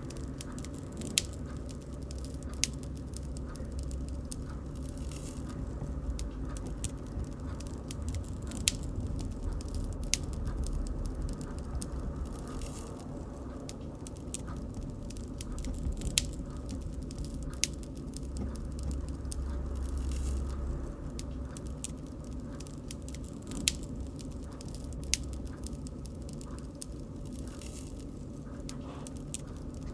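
Wood fire burning: a steady low rumble of flames with scattered crackles and a few sharp pops from the burning wood.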